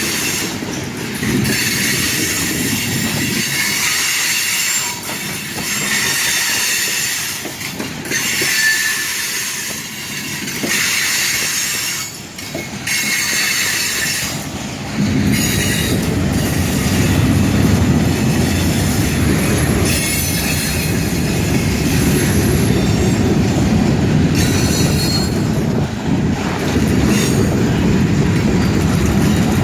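Freight train cars rolling past, their steel wheels squealing against the rails in high-pitched bands; a heavier low rumble comes in about halfway through and holds.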